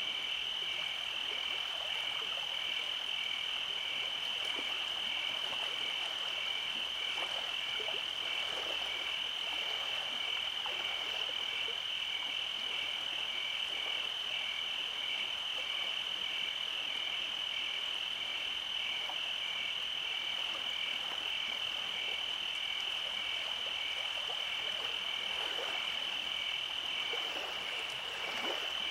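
Night chorus of frogs and insects: a steady high insect trill with a regular pulsing chirp just below it, and scattered low croaks.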